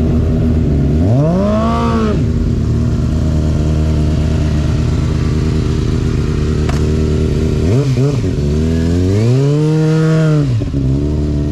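Supersport racing motorcycle engine idling steadily, with the throttle blipped about a second in and then revved again near the end, the pitch rising, held for a couple of seconds and falling back to idle.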